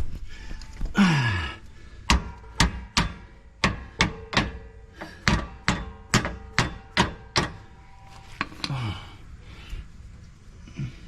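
Hammer striking a steel sway bar stabilizer link about a dozen times in quick succession, with a faint metallic ring after the blows, knocking the link over to line it up.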